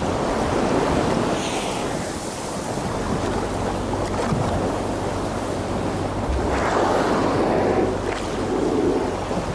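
Sea sound: water washing and splashing with wind, a rushing noise that swells and eases, over a faint low steady hum.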